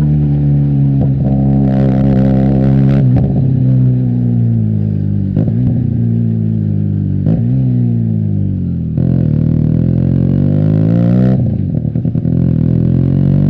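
Benelli TNT 300's parallel-twin engine through an Austin Racing aftermarket exhaust while riding. The engine note falls slowly as the bike slows, picks up sharply about two-thirds of the way in, falls again, and climbs near the end, with short breaks at gear changes.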